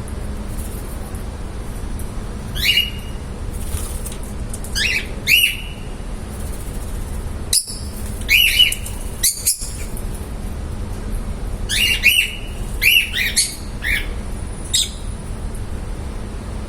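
Lovebirds giving short, shrill chirping calls in small clusters every few seconds. A steady low hum runs underneath.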